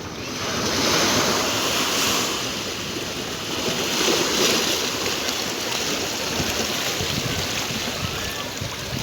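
Sea surf breaking and washing up the shore, swelling louder about a second in and again around four seconds in.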